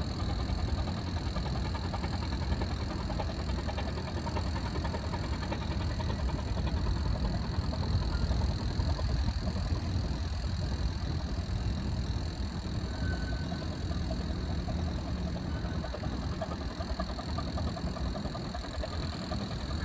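An engine running steadily, its sound mostly low, with a faint steady whine high up and no change in speed.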